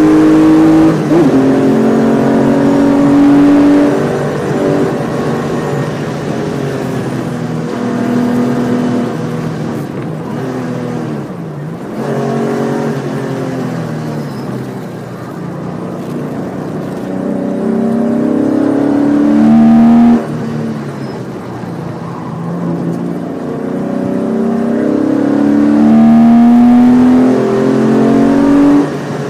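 Porsche 993's air-cooled flat-six heard from inside the cabin at speed on track. The revs climb twice under hard acceleration, each time dropping off suddenly, with an earlier sharp drop as the car slows for a corner.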